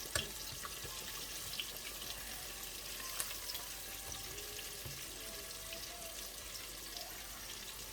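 Floured chicken wings deep-frying in hot oil: a steady sizzling hiss with scattered small pops and crackles.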